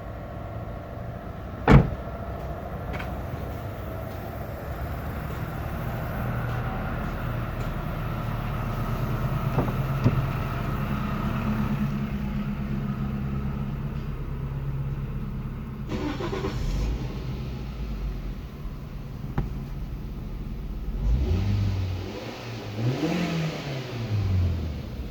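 Toyota 1SZ-FE 1.0-litre four-cylinder engine idling steadily, with a sharp click about two seconds in. Near the end it is revved up and let back down a couple of times.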